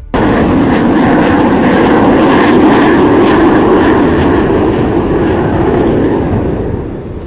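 Blue Angels F/A-18 Super Hornet fighter jets flying past, a loud, steady jet engine noise that comes in suddenly and eases off near the end.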